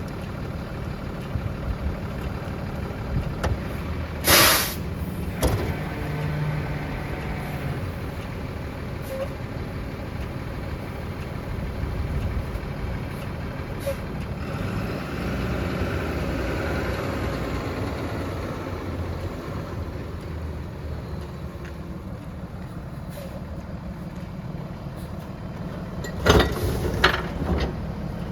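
Rear-loader garbage truck running steadily, with a short, loud air-brake hiss about four seconds in. A few loud, sudden noises come near the end.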